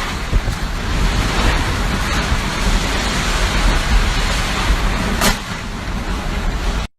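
Typhoon wind blowing hard and buffeting the microphone with a heavy low rumble, a sharper gust about five seconds in; the sound cuts off suddenly just before the end.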